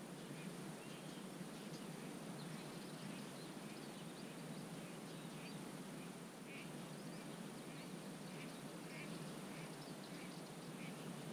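Wetland birds calling faintly, a run of short, repeated chirp-like calls every half second or so, over a steady low background rush.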